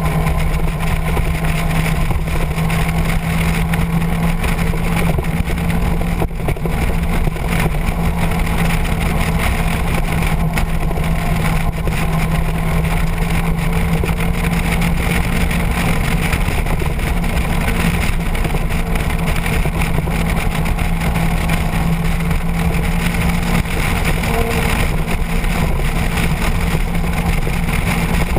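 Motorcycle engine running at a steady cruising speed, its pitch holding level with no gear changes, under a constant rush of wind noise on the microphone.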